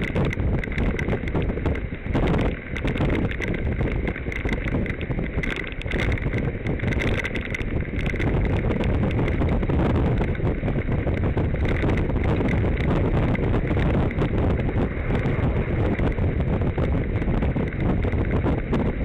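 Wind buffeting the microphone of a camera carried on a moving bicycle, with a steady patter of small knocks and rattles from the ride.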